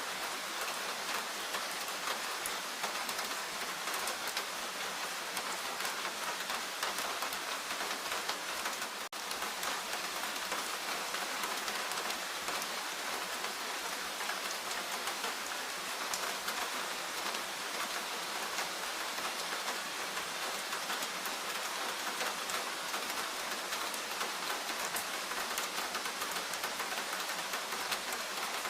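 Steady rain falling, a dense patter of drops without letup, with a brief dip in level about nine seconds in.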